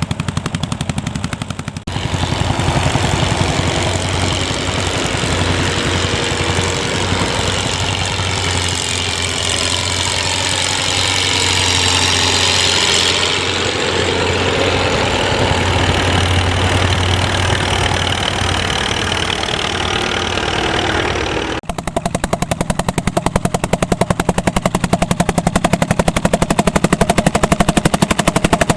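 Vintage tractor engines working under load: a rapid, even exhaust beat, cut about two seconds in to a steadier engine note that dips and rises in pitch around the middle, then the rapid exhaust beat again for the last several seconds.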